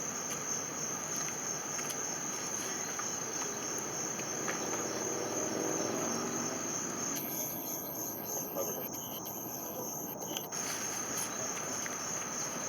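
Crickets chirping steadily in a fast, even pulsing trill, over a faint continuous hiss.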